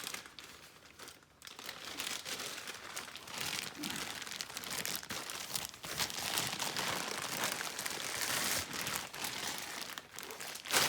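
Crinkling and rustling of packaging being handled, a run of small crackles that starts about one and a half seconds in and goes on with short pauses.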